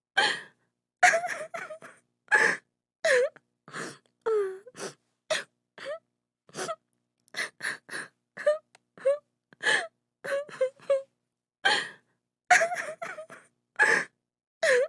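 A woman sobbing: short, broken cries and gasping breaths in quick succession, some with sliding, wavering pitch, separated by brief silences.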